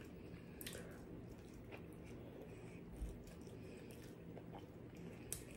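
Quiet chewing of a fried fish sandwich, with a few short sharp mouth clicks and a soft low thump about three seconds in.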